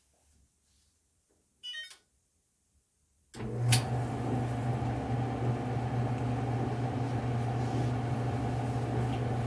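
A short electronic beep from a Frigidaire dryer's control panel, then about three seconds in the dryer starts with a click and runs with a steady hum from its motor and blower.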